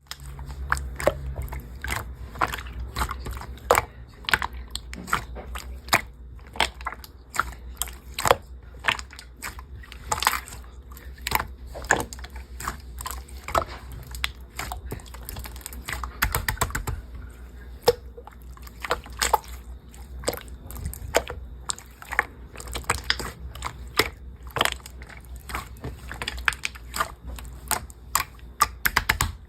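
Clear slime being squished and poked, making irregular sticky clicks and pops, often several a second, over a low steady hum.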